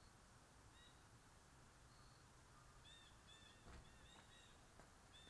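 Near silence, with faint short bird chirps repeating in the second half and a couple of soft clicks.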